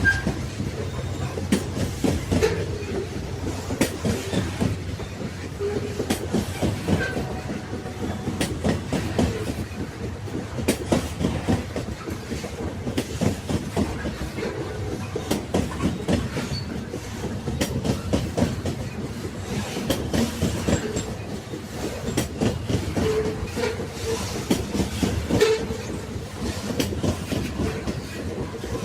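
Railway wagons rolling along the track: a steady low rumble with the wheels clacking rhythmically over the rail joints, and a few short squeals late on.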